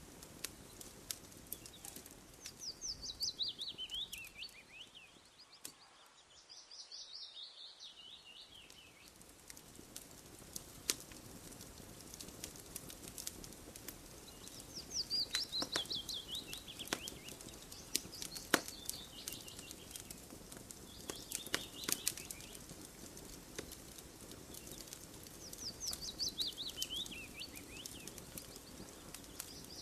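A wood campfire crackling with sharp, irregular pops, while a bird sings a short phrase of quick notes that falls in pitch, repeated every few seconds.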